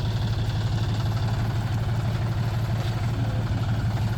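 Tractor engine idling steadily, a constant low hum with an even fast pulse and no revving.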